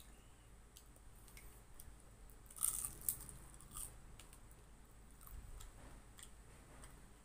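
Crisp bites into a fried lumpia spring roll, a cluster of crunches a little under three seconds in, then quieter chewing with small wet clicks.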